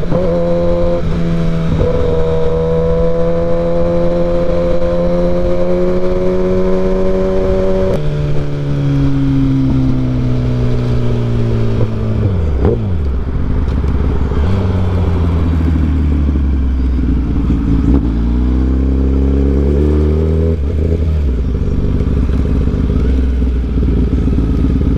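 Kawasaki ZX-10R inline-four sportbike engine with a new aftermarket exhaust and dyno tune, heard on board. It holds a steady cruising pitch, drops about a third of the way through, falls sharply near the middle as the bike slows, then runs lower and less evenly.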